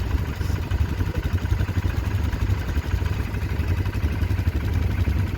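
Quad bike engine idling steadily just after being started, a low, even pulsing hum.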